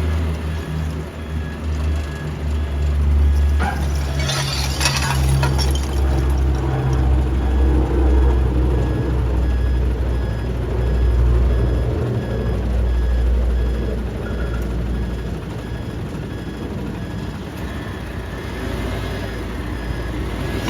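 Heavy truck's diesel engine running with a steady low rumble, with a short burst of air hiss about four seconds in.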